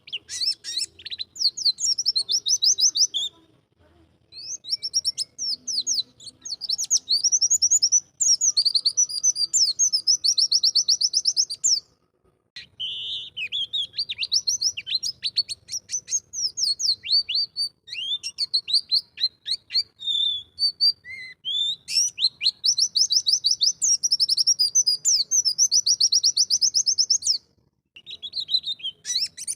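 White-eye (pleci) singing long, fast twittering phrases of rapid high notes, breaking off briefly about four, twelve and twenty-eight seconds in.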